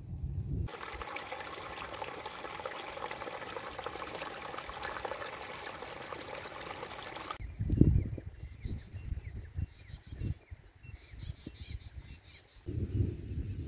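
Flowing water from a stream or small waterfall, a steady rushing splash that starts just under a second in and cuts off abruptly about seven seconds in. After that come irregular low thumps and rumbling, heavier near the end, with a few faint high chirps.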